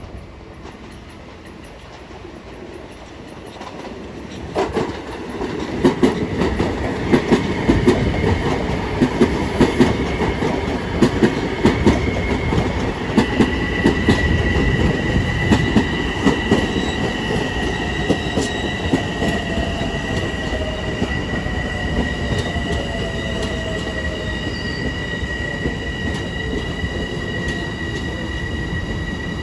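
A Long Island Rail Road train comes in about five seconds in, its wheels clattering over rail joints and switches. From about the middle on, a steady high wheel squeal rings over the running noise, with a lower whine slowly falling in pitch.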